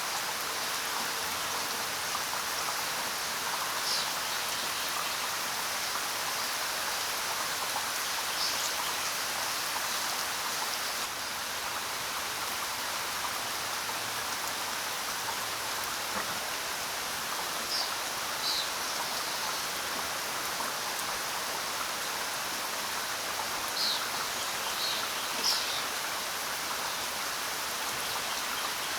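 Steady rain falling, an even patter, with a few brief, high bird chirps scattered through it.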